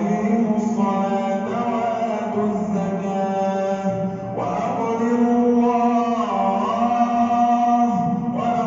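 A man chanting Quran recitation in the melodic tajweed style, holding long, drawn-out notes that slide and step between pitches.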